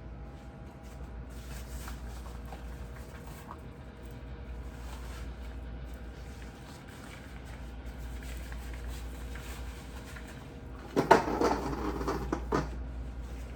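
Clattering and knocking of things being handled while a refrigerator is cleaned out, with a loud rattling burst of about a second and a half near the end, over a steady low hum.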